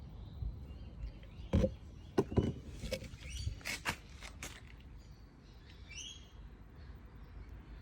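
A few short knocks and clicks from an oil bottle and measuring cup being handled while more oil is poured into a mower engine. A bird chirps a few times near the end.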